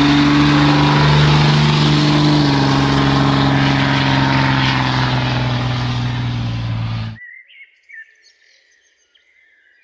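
Pickup truck engine running steadily under load, its pitch dropping about two and a half seconds in. It cuts off abruptly about seven seconds in, leaving only faint high chirps.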